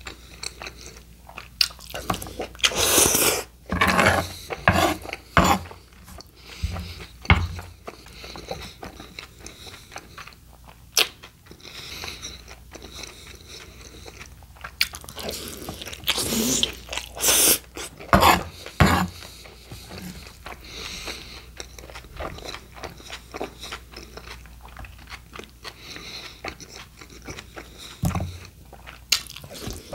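Close-miked chewing of a mouthful of steak burrito: wet mouth sounds, smacks and crunches in irregular bursts, loudest a few seconds in and again past the middle.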